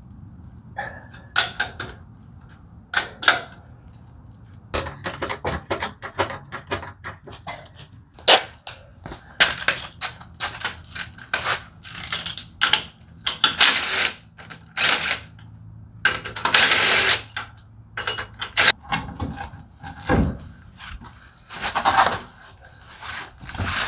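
Lug nuts being taken off a truck wheel with hand tools: a long run of irregular metallic clicks, clanks and scrapes, some short and some lasting about a second.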